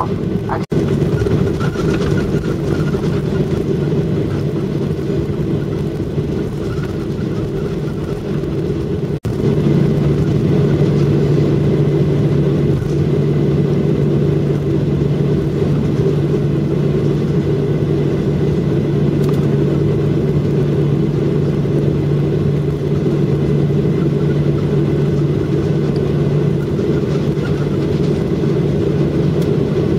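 Steady airliner cabin noise while taxiing after landing: the jet engines at low power and the cabin air, a continuous low hum. It drops out for a moment about nine seconds in, then carries on slightly louder.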